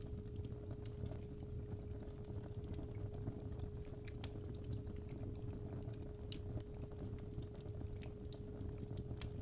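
Fireplace fire crackling with irregular sharp pops over a low steady rumble, under a constant 417 Hz sine tone.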